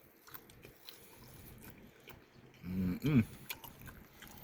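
Chewing and biting food close to the microphone, with small wet mouth clicks, and a short voiced sound from the eater about three seconds in.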